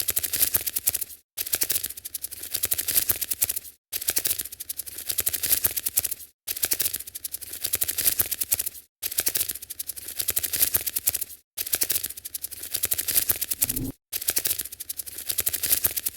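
Looped sound effect of rapid, dense clicking and scratching, of the kind used for a scuttling spider. It comes in runs of about two and a half seconds, each broken off by a brief silence, about six times.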